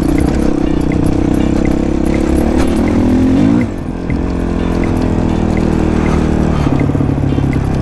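Honda CRF450 dirt bike's single-cylinder four-stroke engine running under throttle on a trail. It revs up about three seconds in, drops off briefly as the throttle closes, then pulls steadily again.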